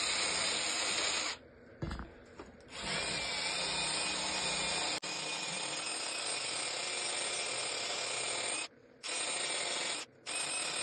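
Power drill run in four bursts, each starting and stopping cleanly, the longest about six seconds, with short pauses between.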